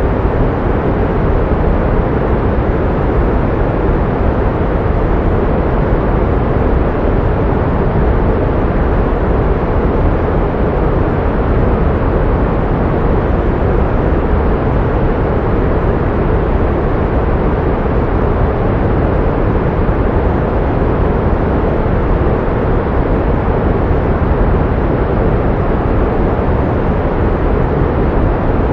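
Steady pink noise: an even, unchanging rush with most of its weight in the low and middle range, fading off toward the highs.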